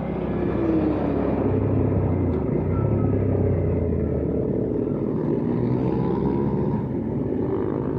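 Hyosung GV650 Aquila V-twin motorcycle engine running on a city street, its pitch falling and rising as the revs change, over steady road noise.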